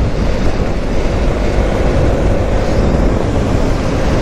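Wind rushing and buffeting over the microphone of a moving motorcycle, a steady heavy rumble with the bike's engine running underneath.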